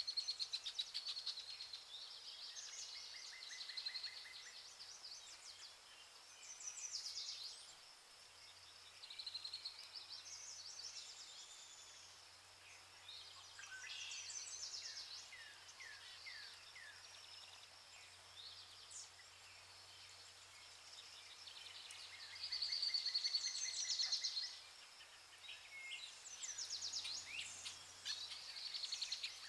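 Rainforest ambience: many birds calling at once, with chirps and rapid trills overlapping. A run of short falling whistles comes about halfway through, and a louder burst of calls about three-quarters of the way in.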